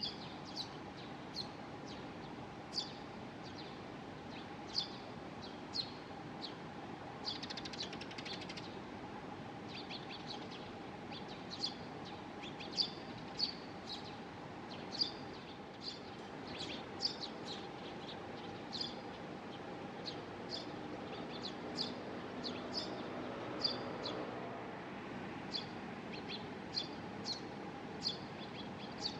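Baby Eurasian tree sparrow chirping at feeding time: short, high chirps repeated irregularly, one or two a second, over a faint steady hum.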